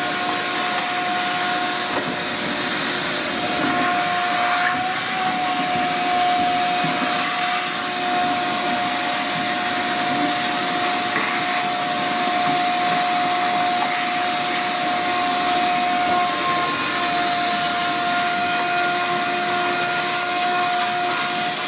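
Shop vacuum running steadily, cleaning debris out of the dryer cabinet, with a steady whine over the rush of air.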